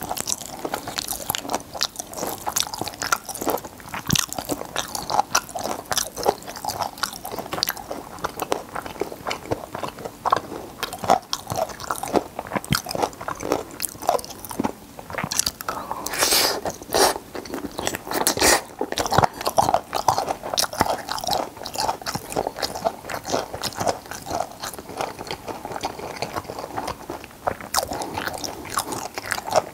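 Close-miked chewing and biting of braised skate, a dense run of short mouth clicks and crackles that grows busiest about sixteen to nineteen seconds in.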